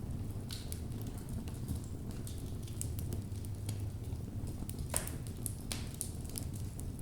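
Wood logs burning in a fireplace: a steady low sound from the flames with scattered crackles and pops. The sharpest snap comes about five seconds in.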